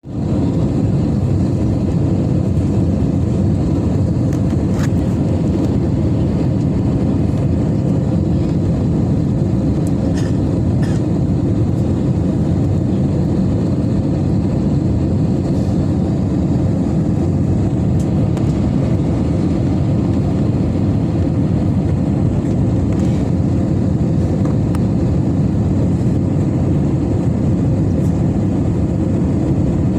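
Steady, loud low rumble of a Citilink Airbus A320neo airliner's engines and airflow around the landing, with a faint steady tone.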